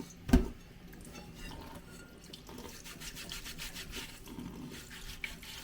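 Water trickling and dripping with light scraping and clinking as a rust-eaten steel suspension strut-top reinforcement panel is rinsed and handled in a sink, with one sharp knock of metal about a third of a second in.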